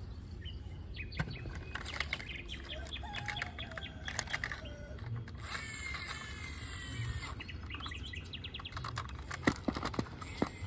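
Birds chirping in quick, repeated high notes over a steady low hum, with a few sharp clicks near the end.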